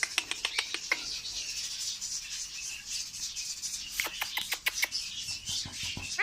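Pet parrot: a run of sharp clicks and rattles in the first second and again about four seconds in, over a steady high-pitched chatter.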